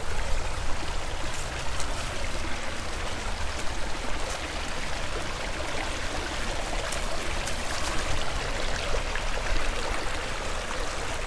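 Creek water running steadily over rocks, a constant rushing babble, with a low rumble underneath.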